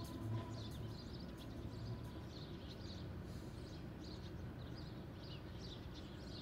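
Outdoor ambience: small birds chirping in short, scattered calls over a steady low background rumble.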